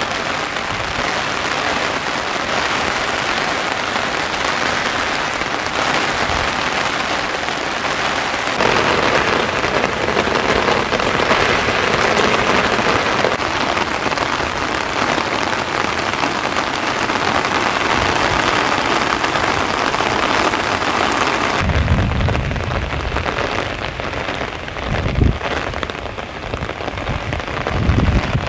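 Heavy rain falling steadily, a dense even hiss. About three-quarters of the way through the hiss thins and a few low rumbles come through, the loudest a little before the end.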